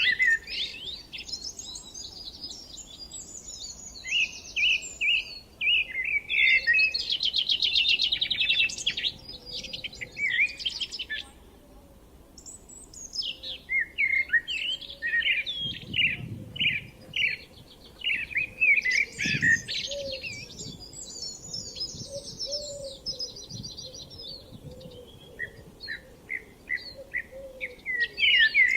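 Songbirds singing: long phrases of quick chirps and rapid trills, with a short lull near the middle.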